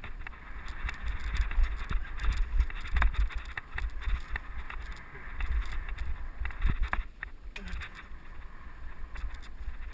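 Mountain bike riding over a dirt trail, heard from a helmet-mounted camera: wind rumbling on the microphone over tyre hiss, with frequent clicks and rattles from the bike over bumps.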